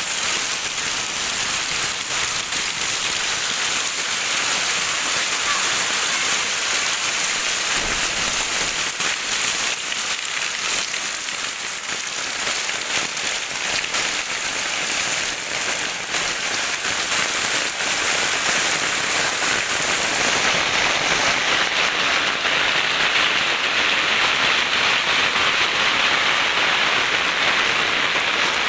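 Steady heavy rain falling, a dense patter of countless drops. About twenty seconds in, its sharp high hiss drops away and the patter sounds fuller.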